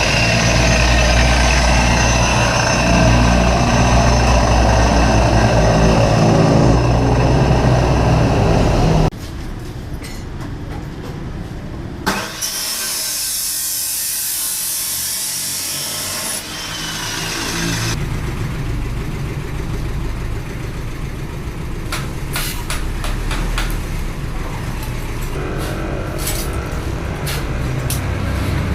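Motorcycle shop work sounds in edited segments: an engine running with a deep rumble for the first nine seconds, then a high hiss for a few seconds, then a steady lower background with repeated sharp metallic clicks and knocks.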